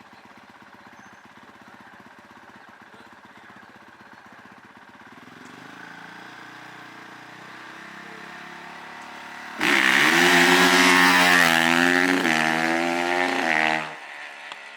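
Small racing-vehicle engine running faintly, then very loud at high revs for about four seconds, its pitch wavering, before dropping off suddenly.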